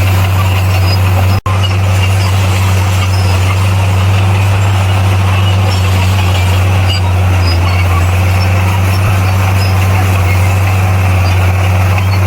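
Bulldozer's diesel engine running steadily under load with a deep, even drone, broken by a split-second dropout about a second and a half in.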